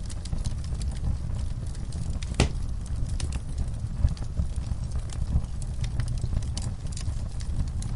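Logs burning in a fireplace: a steady low rumble of flame with frequent sharp crackles and pops from the wood, one louder pop about two and a half seconds in.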